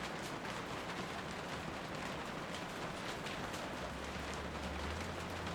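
Steady rain falling, with individual drops ticking now and then. About four seconds in, a low rumble comes in briefly.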